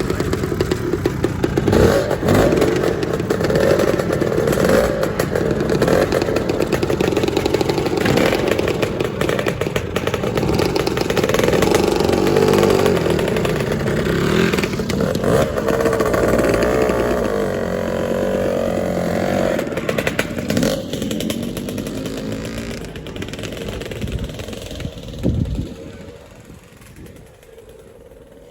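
Two-stroke scooter engines running and revving as the scooters pull away, pitch rising and falling, fading away over the last few seconds.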